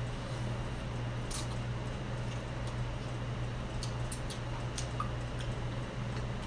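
Faint wet mouth clicks of someone chewing a mouthful of instant ramen noodles, a few scattered ticks over a steady low hum.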